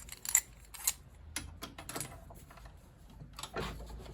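Small metal boiler fittings and hand tools being handled on a bench: scattered light clicks and clinks, with a duller, fuller knock about three and a half seconds in.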